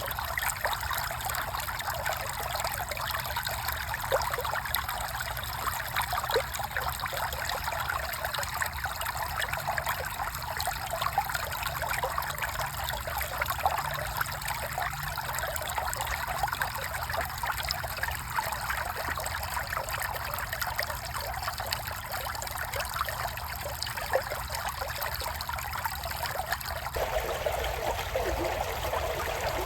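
Creek water flowing and trickling in a steady babble. About 27 seconds in, the sound changes abruptly to a lower, fuller flow.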